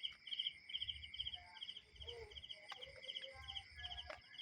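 Crickets chirping steadily, short pulsed chirps about three a second over a fainter continuous insect trill.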